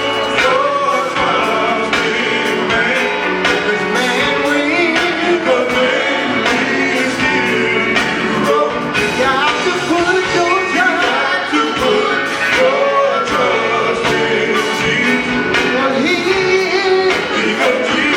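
Male gospel vocal group singing with band accompaniment over a steady drum beat.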